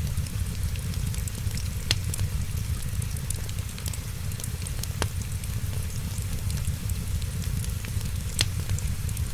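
Wood fire crackling: many small ticks over a steady low rumble, with three louder pops spaced a few seconds apart.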